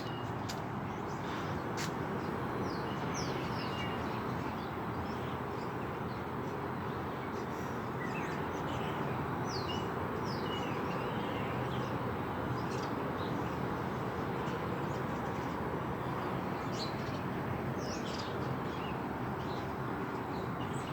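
A flock of birds chirping, with many short, overlapping calls and quick pitch sweeps scattered throughout over steady background noise.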